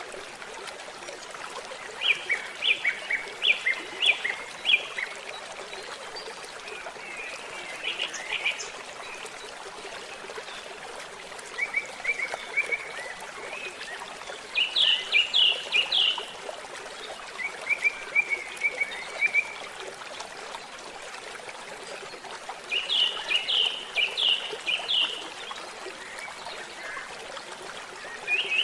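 A stream trickling steadily while birds sing short phrases of quick, repeated high notes every few seconds.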